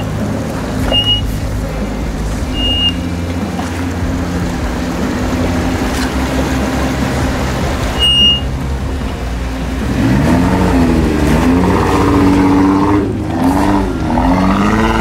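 Jeep Wrangler engine running at low revs as it crawls over rocks, then revving up and down repeatedly from about ten seconds in as the driver works it over the rough ground.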